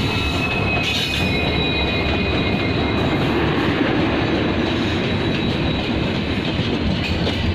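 Passenger train of LHB coaches rolling past on the rails as it slows for a station stop, with a continuous rumble of wheels on track. A thin high squeal is strongest in the first couple of seconds and then fades.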